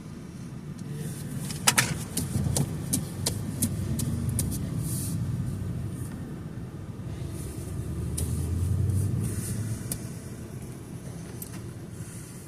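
Car driving, heard from inside the cabin: a steady low road rumble, with a run of sharp clicks about three a second early on and a swell of rumble and hiss a little past the middle.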